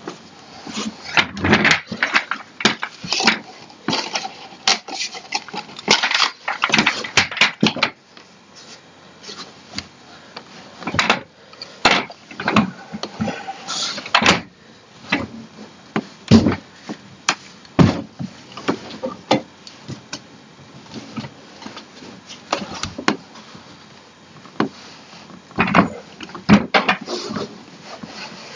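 Irregular knocks, clunks and scraping as the parts of a DX Racer gaming chair are handled and fitted during assembly. They come thick and fast for the first several seconds, then as scattered single knocks.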